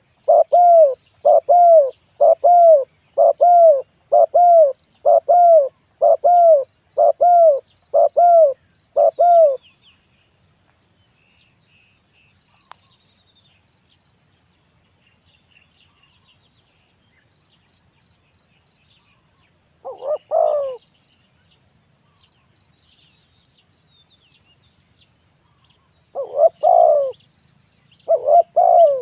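Spotted dove cooing: a run of about ten short coos roughly a second apart, then a pause, a brief group of coos about twenty seconds in, and more coos near the end. Faint high chirps of small birds sound during the pause.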